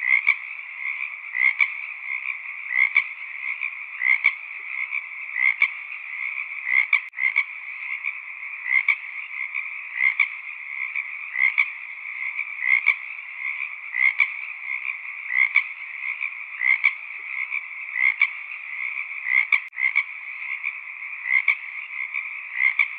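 Frogs calling in a continuous chorus, with one louder call repeating evenly about every 1.3 seconds.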